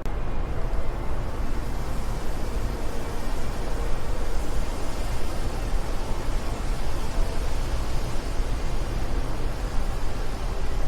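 Steady wind rushing, a dense even noise with a deep rumble underneath and a hiss on top.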